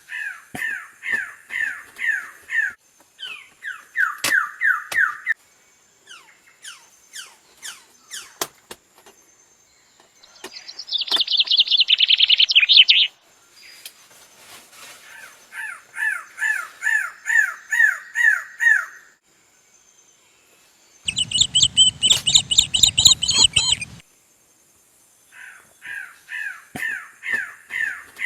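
Greater lophorina (superb bird-of-paradise) calling: bouts of harsh, repeated downslurred notes at about two to three a second, each bout lasting a few seconds. Partway through comes a louder, higher-pitched run of calls, and later a harsh, rasping burst of about three seconds.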